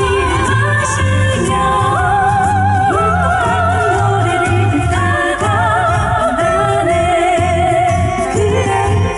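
Classically trained singers singing a Korean pop song in harmony, their voices carrying wide vibrato, over an amplified accompaniment with a steady pulsing bass beat.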